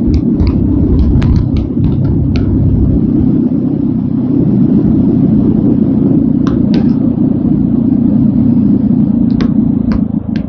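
TVS Apache RTR 200 4V single-cylinder motorcycle engine running at a steady cruise during a ride, blended with a heavy wind rumble. Scattered sharp clicks come in a cluster in the first couple of seconds and a few more later on.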